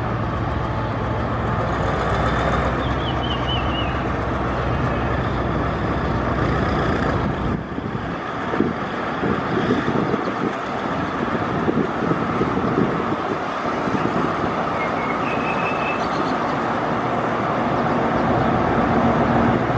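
Diesel locomotive engine running steadily with a low hum, and train noise rising into irregular clattering from about 8 to 14 seconds in.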